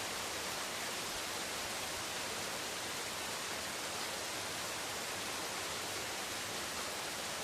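Steady rain falling on forest leaves: an even, unbroken hiss with no single drops standing out.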